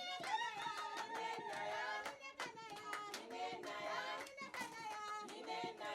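A group of voices singing together to hand clapping, with little bass underneath.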